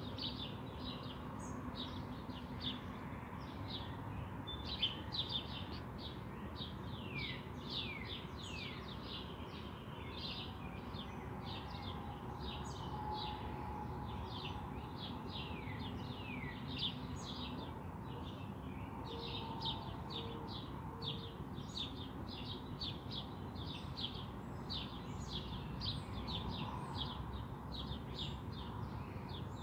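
Small songbirds chirping and singing without a break: many quick high notes that slide downward, several a second, over a steady low background hum.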